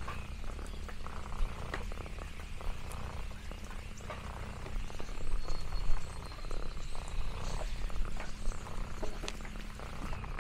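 Orange tabby cat purring steadily close to the microphone, with scattered small clicks and rustles over it.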